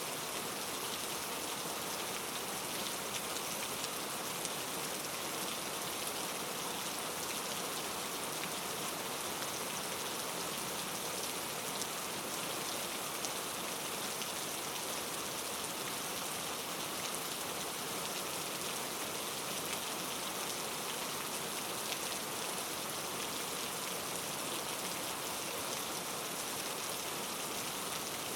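Steady rain falling, a dense even patter of raindrops on surfaces with no thunder.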